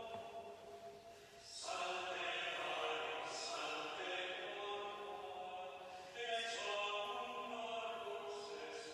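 Slow sung chant closing the Mass: long held sung notes in two phrases, the first starting about a second and a half in and the next about six seconds in.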